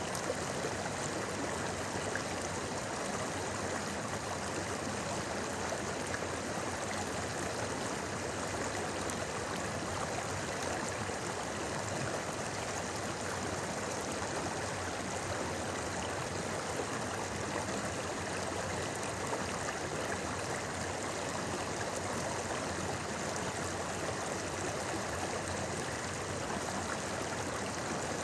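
River water babbling over rocks in a steady, unbroken rush.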